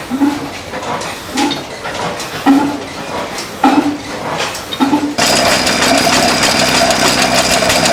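Antique stationary engine firing slowly, one pitched exhaust puff roughly every second. About five seconds in, the sound switches abruptly to a louder, steady engine running with a dense mechanical clatter.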